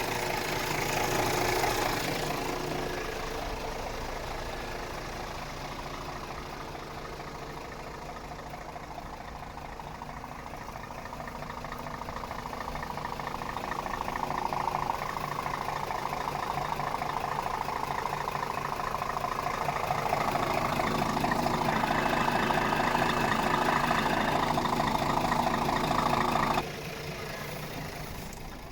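Scania R500's 13-litre straight-six diesel engine running at idle, steady, growing louder over the second half before dropping away abruptly near the end.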